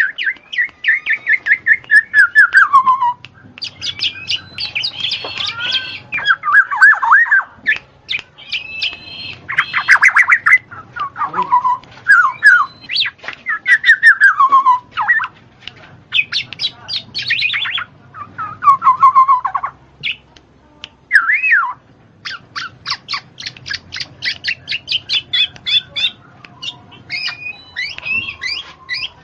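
A bird singing loudly and without pause: a varied run of phrases mixing falling whistled slurs with fast trains of short, chattering notes.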